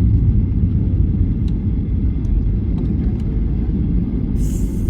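Steady low rumble inside a Boeing 737-800's passenger cabin, with a few faint clicks and a short hiss near the end.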